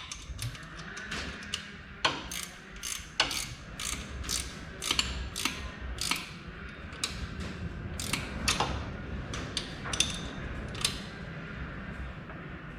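Hand socket wrench ratcheting as accessory bolts are tightened: a run of sharp clicks, two or three a second, coming in uneven strokes.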